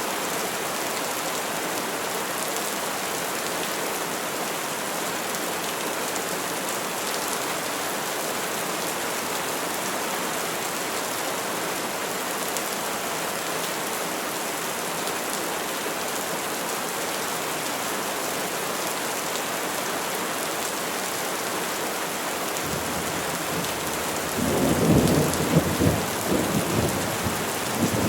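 Steady rain falling, an even hiss. About two-thirds of the way through, a low rumble of thunder builds into a loud rolling peal that dies away in a few uneven surges near the end.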